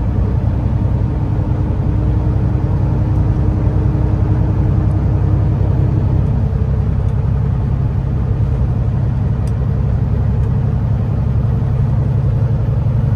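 Kenworth T680 semi truck's diesel engine pulling steadily under load on a climb, heard from inside the cab as a low, even drone with road noise. A faint whine fades out about six seconds in.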